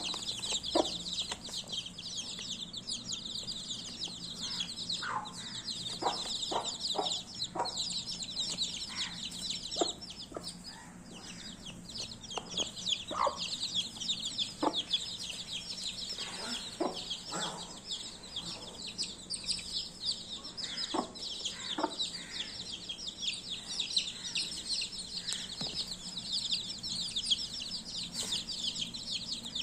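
A group of baby chicks peeping continuously, many short high chirps overlapping, with scattered soft taps and a faint steady low hum underneath.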